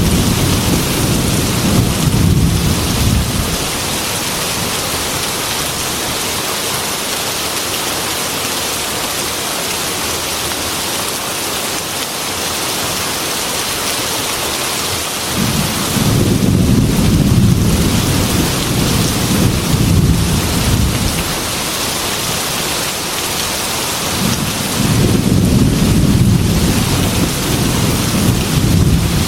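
Heavy rain hammering steadily on a metal roof, with thunder rumbling low three times: one rumble dies away in the first few seconds, a long one comes about halfway through, and another starts near the end.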